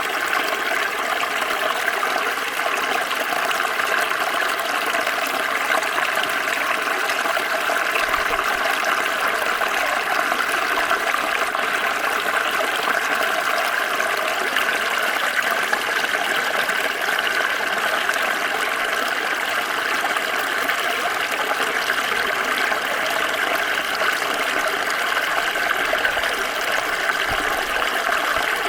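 Small stream flowing over stones, a steady babbling and trickling of water.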